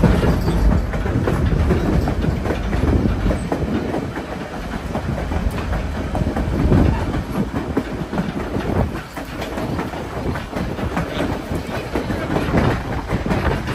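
Narrow-gauge passenger train running: steel wheels rumbling and clattering on the track with frequent short knocks, heard from the open end platform of a moving coach.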